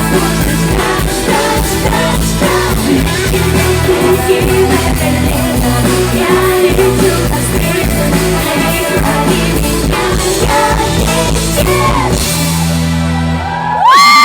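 Loud live rock-pop concert music: a band with guitar and drums playing under a female lead singer, heard through a crowd-distance phone recording. Near the end the band thins out to a low held chord.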